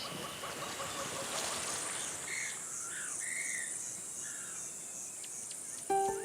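Jungle ambience: insects chirring high and pulsing steadily, with a few short bird calls in the middle. Music comes in near the end.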